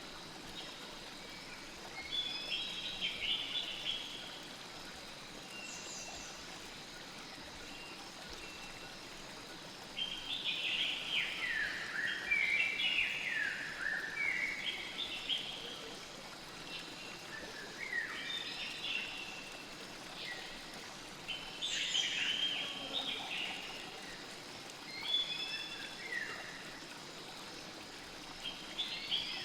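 Steady flow of a forest stream, with songbirds singing over it in repeated bursts of quick falling notes.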